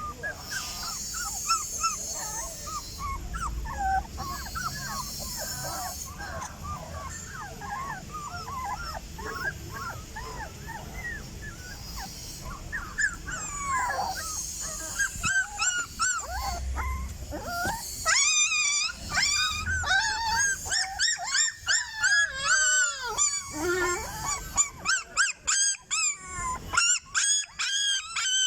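Dog whining and howling in a long run of short cries that bend up and down in pitch. In the second half the cries get higher and louder, and near the end they come in quick pulses.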